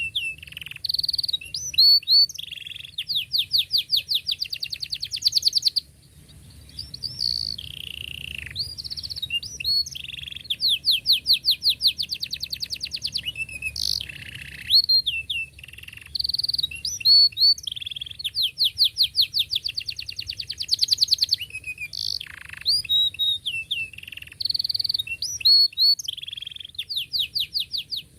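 Domestic canary singing a long song: sharp chirps alternating with fast, tight rolling trills, phrase after phrase with only brief pauses.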